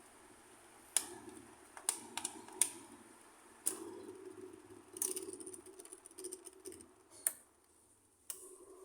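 Maspion box fan: irregular sharp clicks of its controls being worked over the motor's low hum. The hum dies away to near silence for a moment and comes back after a click near the end.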